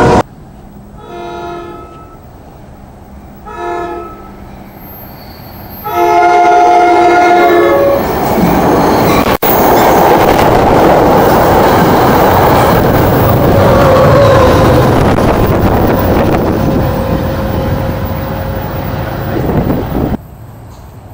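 NJ Transit express commuter train approaching and passing through the station at speed. Its horn gives two short toots about one and three and a half seconds in, then a loud, longer blast at about six seconds. The rushing wheel and car noise of multilevel coaches passing close by follows, then stops abruptly near the end.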